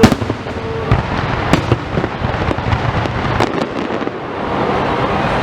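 Aerial fireworks going off: a loud bang at the very start, then a run of sharper bangs and cracks over the next few seconds.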